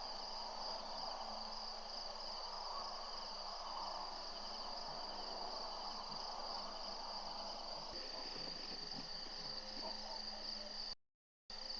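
Steady high-pitched chirring of a night insect chorus, typical of crickets, over a rough hiss that fades out about two-thirds of the way through. The audio cuts out completely for a moment near the end.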